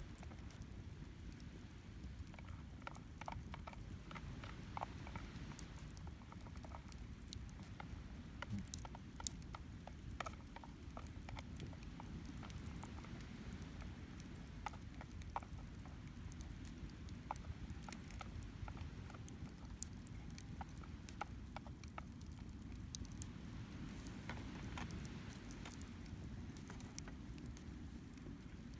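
Cedar and oak firewood burning in a campfire, crackling and popping irregularly, over a steady low rumble of sea waves and wind.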